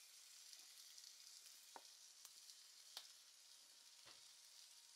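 Faint sizzling of pork barbecue and barbecue sauce heating in a frying pan, with a few light clicks.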